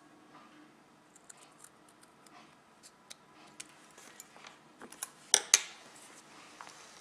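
Scissors snipping, with scattered light clicks of handling, then two sharp, loud snips in quick succession about five and a half seconds in.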